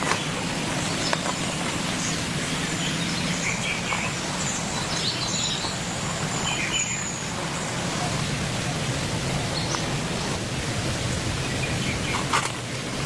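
Steady hiss of falling rain, with a few faint bird chirps in the middle.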